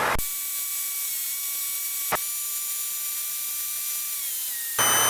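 Cockpit radio audio feed with no one transmitting: a steady hiss with a few faint, thin whine tones and a single sharp click about two seconds in. A low hum comes on near the end.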